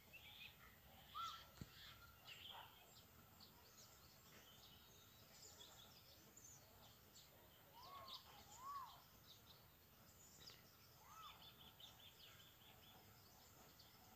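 Faint birdsong: several birds chirping, with a few short rise-and-fall calls about a second in, twice around eight to nine seconds, and again near eleven seconds.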